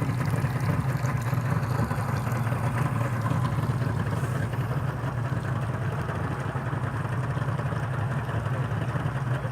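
A boat engine running steadily at constant speed, with a low, even hum.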